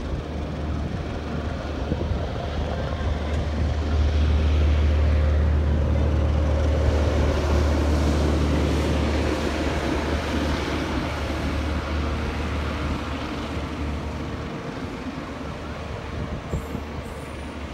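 Passenger train coaches rolling past on the rails with a steady low rumble, loudest about a third of the way in and fading as the last coach pulls away.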